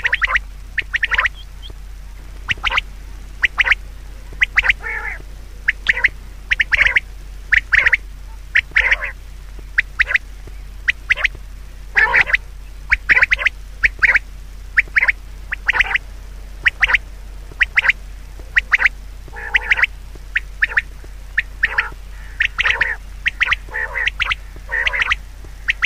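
Birds calling: many short, harsh calls in quick, irregular bursts, over a steady low hum.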